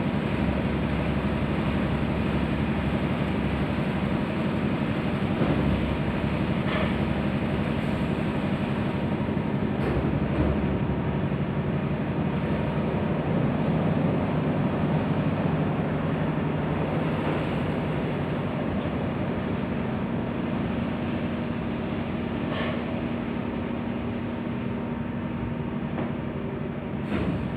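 Automatic car wash machinery running, a steady rushing of water spray and moving gear over a low hum.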